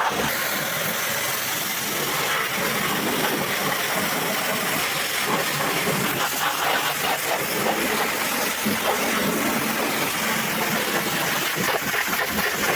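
High-pressure water jet spraying onto a truck engine: a steady hiss with dense spatter.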